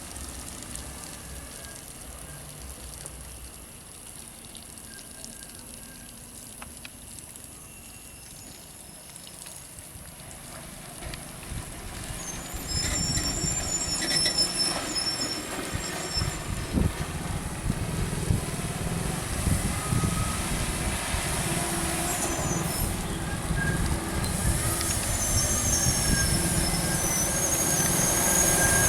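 BharatBenz heavy truck's diesel engine working slowly on a steep hill road, growing much louder about twelve seconds in as the truck comes close, with high squeals from its brakes now and then.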